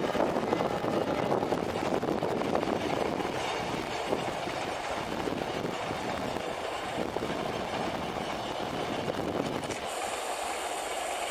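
Vietnam Railways diesel locomotive and its passenger coaches running past close by on the track: a steady rushing rumble of the passing train. About ten seconds in, the low rumble drops away and a thin high hiss comes in.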